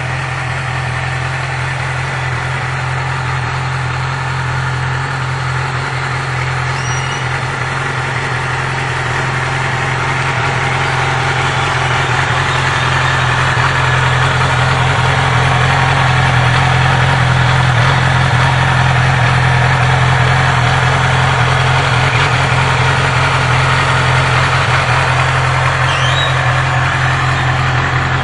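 2012 Yamaha R6's 600 cc inline-four engine idling steadily, growing a little louder about halfway through.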